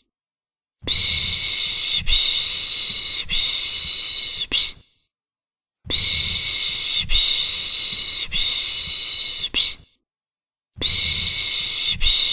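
Shushing 'piş piş' sound for soothing a baby: a hissing 'shh' repeated about once a second in runs of three or four, each run broken off by a second of silence.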